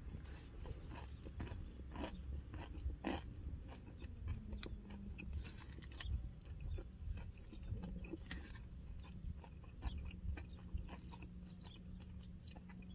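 A person chewing a mouthful of breaded fried chicken slider close to the microphone: faint, irregular wet clicks and small crunches of chewing over a steady low rumble.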